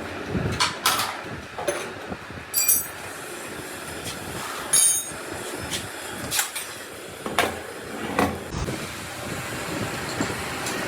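Metal tools and engine parts clanking and knocking irregularly during diesel truck engine work, about eight separate strikes. Two of them, near a quarter of the way in and just before halfway, ring with a bright metallic tone.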